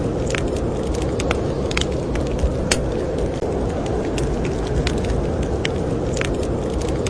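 Wood fire crackling, with frequent sharp pops and snaps, over a steady low rush of blizzard wind.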